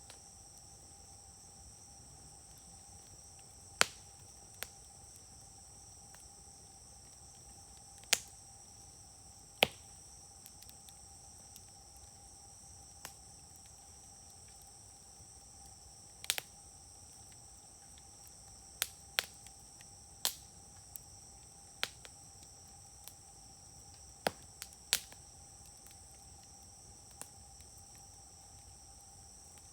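Wood campfire crackling, with a dozen or so sharp pops at irregular intervals. Behind it runs a steady, high-pitched insect chorus.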